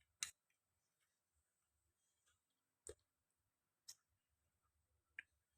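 Near silence broken by four short, sharp clicks of someone eating, spread a second or more apart.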